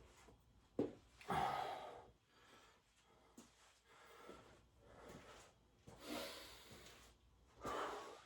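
A man breathing heavily, with three loud breaths, the first just after a short knock about a second in, the others near the end, while lifting weights.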